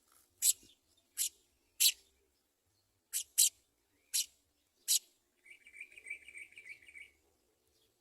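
House sparrow chirping: a series of short, sharp single chirps, about seven spread over five seconds, then a rapid buzzy trill lasting about a second and a half.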